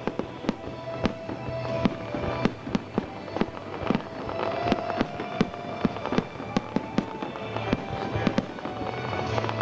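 Fireworks going off in rapid succession: many sharp bangs and crackles, several a second, with music playing underneath.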